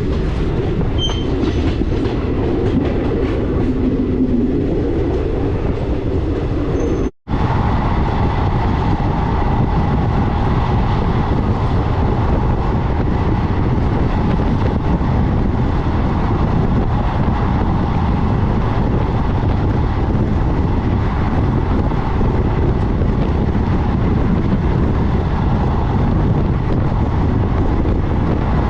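Passenger train running along the line, a steady loud rumble of wheels on rail. About seven seconds in the sound cuts out for an instant and resumes with a different tone, with a faint steady whine on top.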